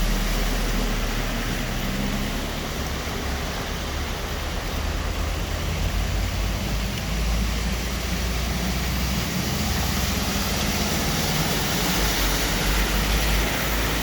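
Vehicles driving through deep road flood water: engines running with a low rumble over a steady rush and wash of displaced water.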